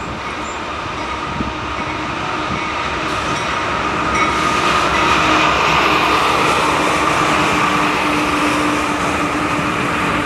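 Norfolk Southern freight train passing, a continuous rumble of locomotives and rolling cars with a steady whine over it, growing louder through the first half.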